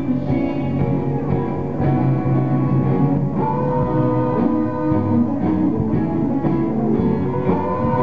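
Live busker music: a plucked string instrument played with a steady pulse, with long held notes sounding over it.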